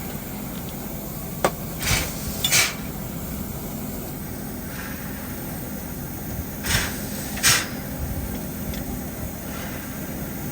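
Standing steam locomotive: short hisses in pairs, about every five seconds, over a steady low hum, with one click early in the first second and a half.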